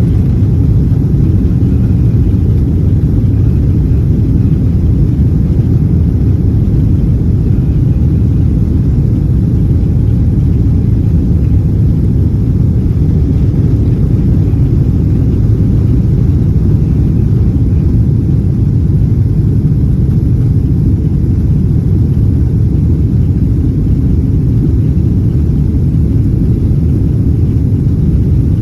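Steady, loud low rumble inside the cabin of a Boeing 777 airliner: engine and airflow noise heard from a window seat, even throughout with no rises or breaks.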